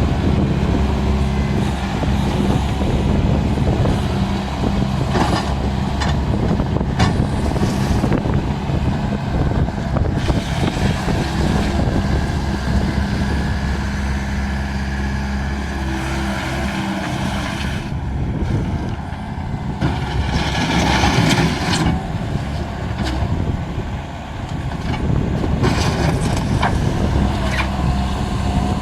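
Diesel engine of a Bobcat skid steer running while the machine is driven, with a few clanks. The engine note drops away about two-thirds of the way through and picks up again near the end.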